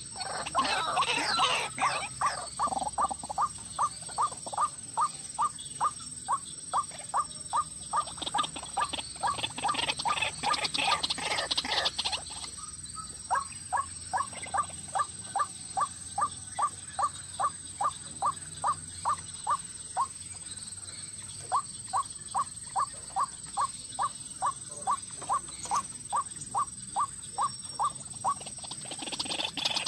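White-breasted waterhen calling: long runs of the same short note repeated about three times a second, in three runs with brief breaks, and louder, more tangled calling at the start and near the end.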